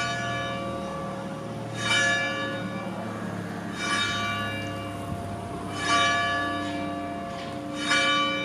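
A single large bell tolling slowly, struck about every two seconds, each stroke ringing on into the next.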